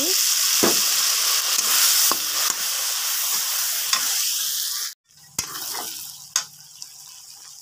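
Chopped tomatoes sizzling loudly in hot mustard oil with fried onion and spices as a metal spatula stirs them, with sharp scrapes and clicks of the spatula against the pan. The sound drops out for a moment about five seconds in, and the sizzle comes back quieter.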